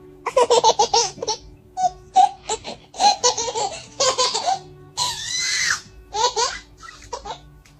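A young child laughing in repeated quick bursts of high-pitched giggles, with a breathy squeal about five seconds in.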